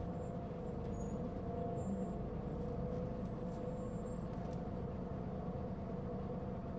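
Interior running sound of a Mitsubishi Fuso Aerostar LKG-MP37FK city bus: a steady low rumble with a constant whining tone over it, from a bus the recordist says was giving off a considerable abnormal noise.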